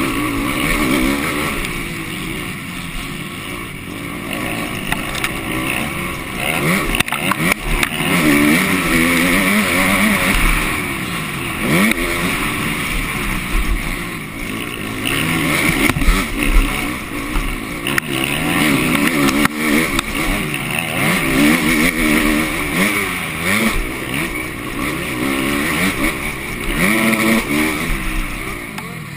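Motocross bike engine heard from a camera mounted on the bike, revving up hard and dropping back again and again as the rider accelerates, shifts and rolls off around the track. A few sharp knocks are mixed in.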